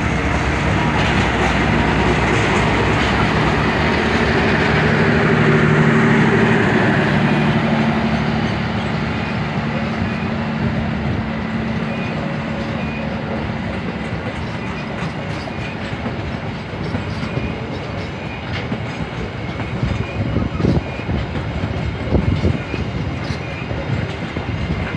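KAI CC 201 diesel-electric locomotive passing with its engine running, then its train of passenger coaches rolling past with a steady rumble and wheels clacking over rail joints. The engine fades after the first several seconds, and sharper clacks come close together near the end.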